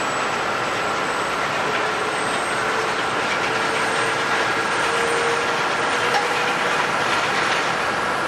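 Jet airliner engines running, a loud steady rush with a thin whine whose pitch creeps slightly upward.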